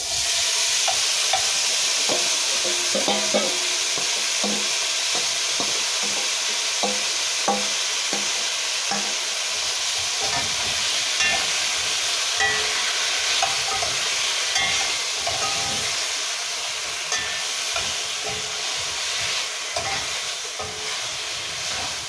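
Chicken feet frying in hot oil with cumin seeds in a pot: a loud sizzle that starts suddenly as they go in and eases slightly toward the end, with the scattered knocks of stirring against the pot.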